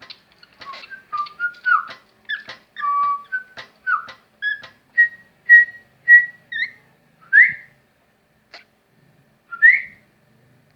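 Cockatiel whistling a quick run of short chirpy notes that thins out after about six seconds, with two louder upward-sliding whistles near the end.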